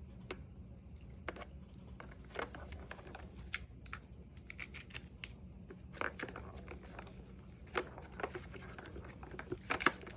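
Irregular light clicks and taps of a cat playing with a ball, batting and chasing it, with a few sharper knocks near the end.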